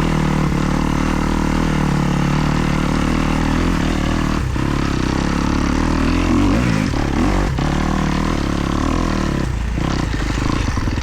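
2024 Kawasaki KX250's single-cylinder four-stroke engine running as the bike is ridden, its pitch shifting up and down around the middle, with two sharp knocks.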